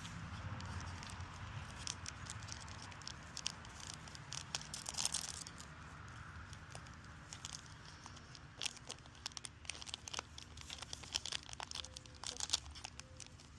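A foil trading-card booster pack being torn open and crinkled in the hands, heard as a run of short, sharp crackles and rustles.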